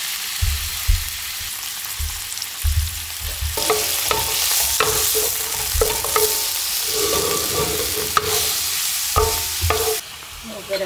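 Raw shrimp sizzling in hot olive oil in a large nonstick pan, with a spatula stirring and scraping against the pan from a few seconds in. The sizzle drops sharply near the end.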